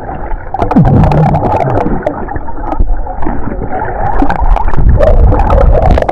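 Muffled churning and gurgling of water around an underwater camera held by a snorkeler, with a steady low rumble and scattered sharp clicks.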